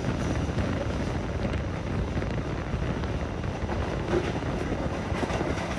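Steady rumble and rushing of a passenger train running at speed, heard from inside the coach, with a few faint clicks from the wheels on the track.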